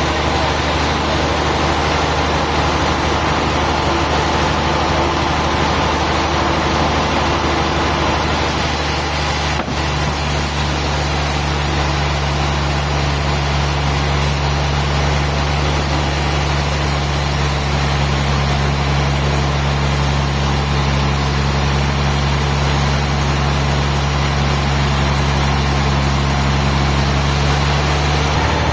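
An engine running steadily at an unchanging speed, with a deep, even hum.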